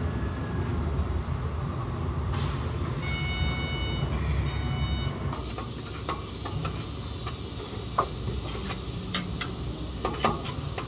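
A truck's diesel engine running with a steady low rumble; a few high steady tones sound for about two seconds near the middle. In the second half the rumble drops back and a series of sharp clicks and knocks follows.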